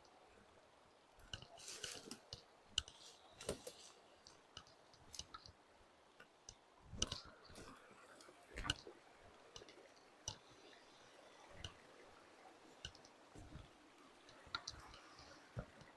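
Faint, irregular clicks and short rustles, a few louder ones scattered through, with no steady background sound.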